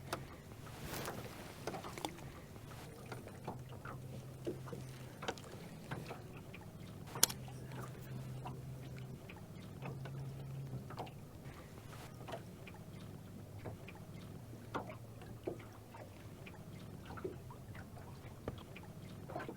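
Faint low hum of a boat's trolling motor, swelling and fading several times, with scattered light clicks and knocks in the boat and one sharper click about seven seconds in.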